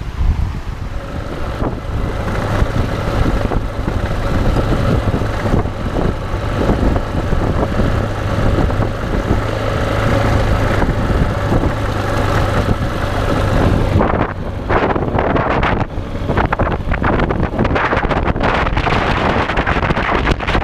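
Motorcycle engine running under way, mixed with wind buffeting on the microphone. About two-thirds of the way through, the steady engine hum gives way to rougher, gustier wind noise.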